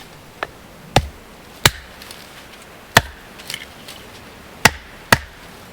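Sharp chopping blows splitting a thick piece of hardwood firewood: about six separate strikes at uneven intervals.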